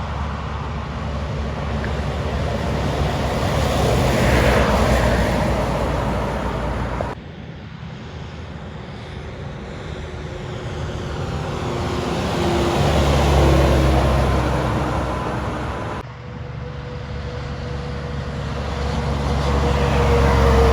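Heavy trucks driving past on a highway, three passes one after another. Each swells in engine and tyre noise and then fades, and each pass cuts off suddenly into the next. In the last pass a whine falls slowly in pitch as the truck goes by.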